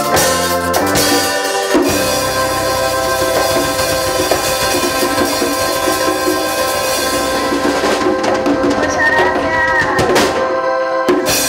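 Grupero band music with a drum kit: a long held chord over drum rolls and cymbals, breaking off about ten seconds in.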